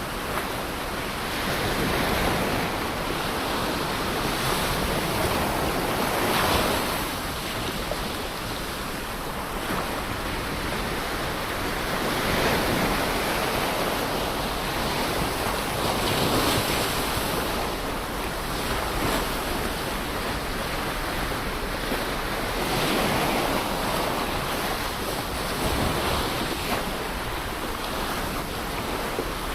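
Ocean surf breaking and washing up the shore, a steady rush that swells with each wave about every four to six seconds.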